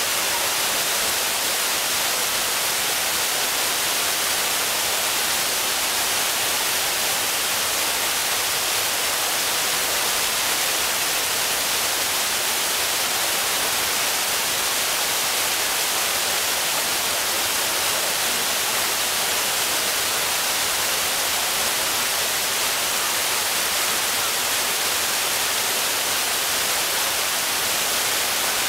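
Shiraito Falls, its water pouring down steadily: an even, unbroken hiss, strongest in the high range.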